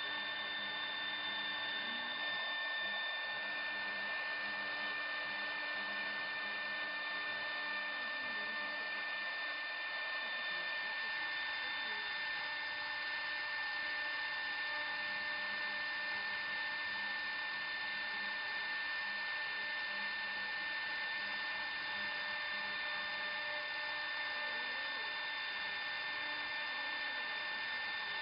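CNC router spindle running with a steady high whine.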